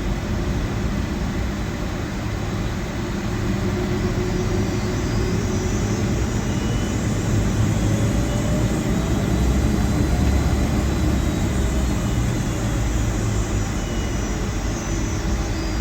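Cabin noise aboard a Boeing 757-200 taxiing after landing: a steady low rumble from the idling jet engines and the rolling airframe, with a slight swell in the middle.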